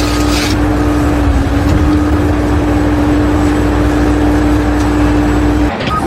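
A loud, steady machine or engine sound: one constant hum over a noisy rumble, cutting off abruptly near the end.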